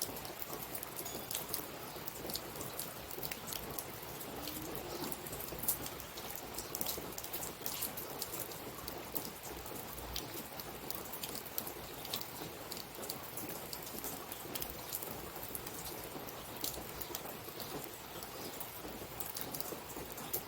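Steady patter: a soft, even hiss dotted with many small, scattered ticks, like rain falling on a surface.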